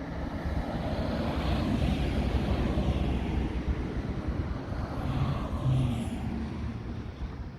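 A vehicle passing: a steady rushing engine noise that swells over the first couple of seconds and fades towards the end.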